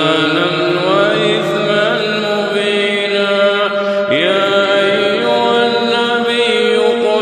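A man's voice reciting the Quran in melodic tajwid style, drawing out long held notes with ornamented turns. About four seconds in, one phrase ends and the next begins with a rising slide.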